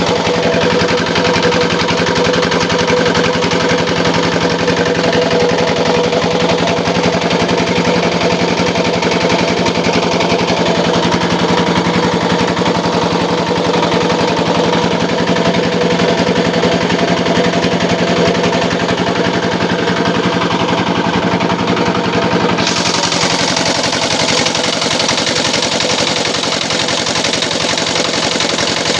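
Engine-driven gambir-leaf grinding machine running steadily, a loud fast rattling pulse with a steady hum. About three quarters of the way through the sound changes, gaining more hiss and losing some of its hum.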